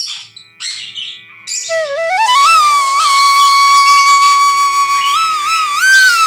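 Flute music: a few short scratchy bursts, then a melody that climbs in steps into a long held note with small bends and ornaments.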